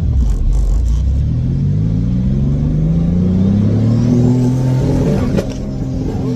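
Single-turbo Dodge Stealth V6 accelerating hard, its engine note climbing with a rising turbo whistle. About five seconds in, the pull breaks off with a couple of sharp cracks and the engine note drops: a cut the occupants put down to oil on the plugs or an anti-lag or launch-control setting.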